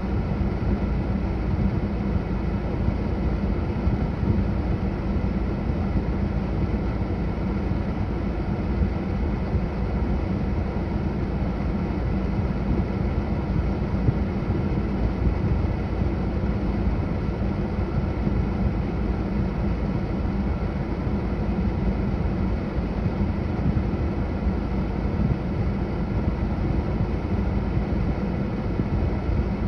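1995 Ford Ranger's four-cylinder engine idling steadily.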